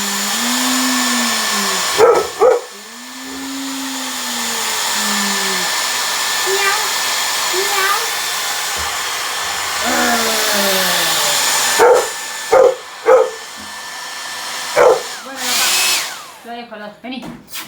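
A hair dryer blows steadily while a dog barks at it in short sharp bursts and gives several long, drawn-out rising-and-falling cries. The dryer switches off near the end.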